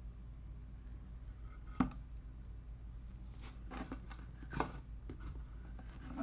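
Small plastic figure parts being handled: a sharp click about two seconds in, then a cluster of clicks and light rustling about three and a half to four and a half seconds in.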